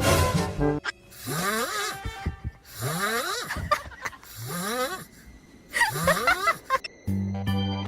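Snoring: four noisy breaths with a rising whistle in each, about a second and a half apart. Background music ends just before and starts again near the end.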